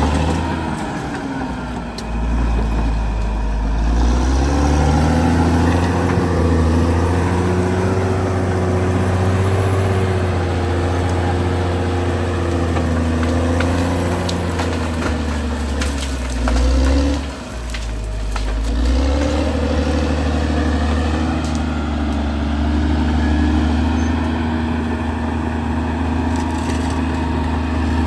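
Caterpillar D6R XL bulldozer's diesel engine working under load, its note rising and falling, with a brief drop about 17 seconds in before it picks up again. Scattered cracks and crunches sound over it as the dozer pushes through soil and vegetation.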